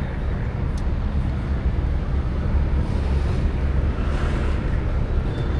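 Steady low rumble of street ambience on a busy road bridge: traffic noise mixed with wind on the microphone.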